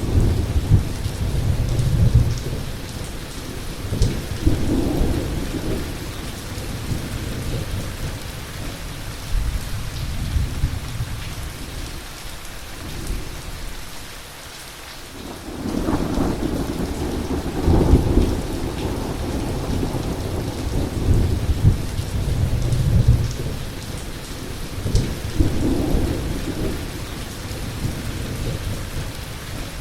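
Heavy rain falling steadily, with thunder rumbling in long rolling peals. The thunder dies away for a moment about halfway, then a new loud rumble breaks in and rolls on.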